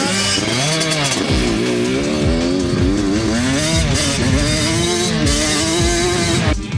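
A 65cc two-stroke youth motocross bike engine revving up and falling back again and again as the throttle is worked, cutting off abruptly near the end.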